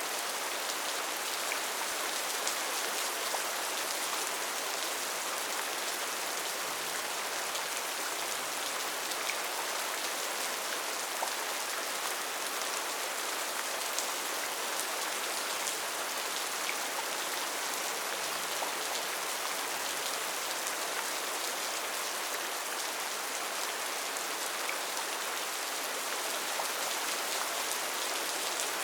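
Steady heavy rain in a rainforest, an even hiss of falling rain with many small drop ticks on leaves and surfaces throughout.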